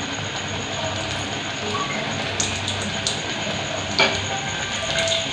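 Besan-battered aubergine slice (beguni) sizzling as it deep-fries in hot oil in a kadai, with a few sharp clicks, the loudest about four seconds in.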